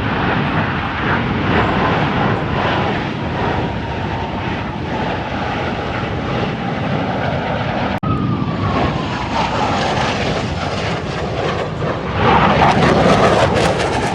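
Fixed-wing airplane engine noise as a plane flies past, a tone in it falling slowly in pitch. After a sudden break about eight seconds in, another pass follows with a falling whine, growing loudest near the end.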